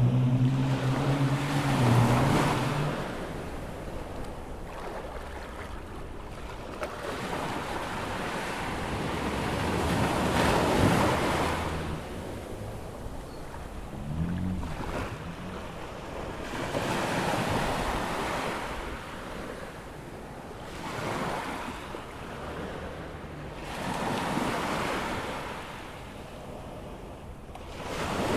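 Ocean waves breaking and washing up a sandy beach on a rising tide, swelling and easing every few seconds, with wind on the microphone. A low engine hum fades out in the first few seconds.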